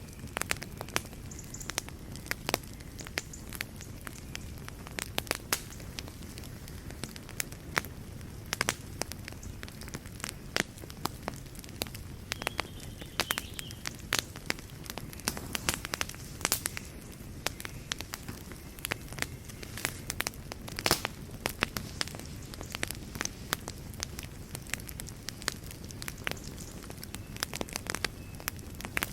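Fire in a fireplace crackling, with many irregular sharp pops over a low, steady rumble of the flames.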